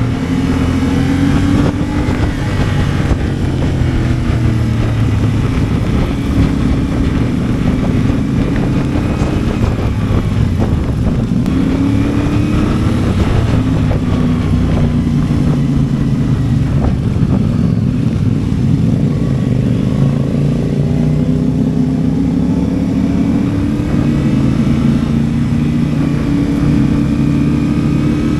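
CFMOTO 450MT's parallel-twin engine running while the bike is ridden, its revs rising and falling again and again.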